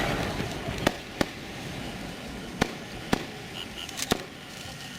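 Aerial fireworks bursting overhead: about five separate sharp bangs, irregularly spaced, over a steady background of crowd and outdoor noise.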